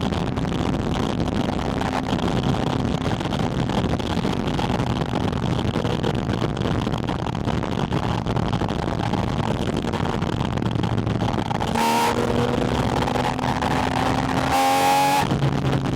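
Porsche 718 Spyder RS's naturally aspirated flat-six heard at its air intake while driving, a steady engine note under heavy intake and wind rush. The engine note rises briefly twice near the end.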